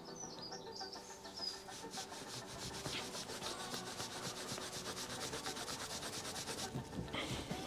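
Microfibre strip being worked rapidly back and forth around a steel LS crankshaft journal with Autosol polish, buffing off surface rust. The rubbing starts about two seconds in as a fast, even rasping rhythm and stops shortly before the end.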